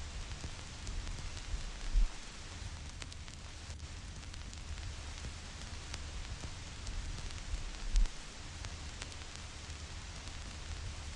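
Vinyl record surface noise: scattered clicks and pops over a steady hiss and low rumble. Two louder low thumps come about six seconds apart.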